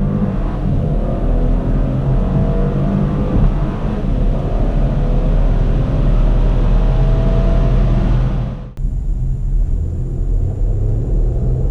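Mercedes-Benz E 400 4Matic Coupe's 3.0-litre petrol V6 pulling at full throttle, its pitch climbing slowly over a broad rushing noise. About nine seconds in the sound cuts abruptly to another stretch of the engine running under load.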